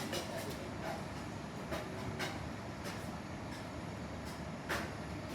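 Steady low rumble of a running vehicle, with sharp clicks and knocks scattered through it; the loudest knock comes near the end.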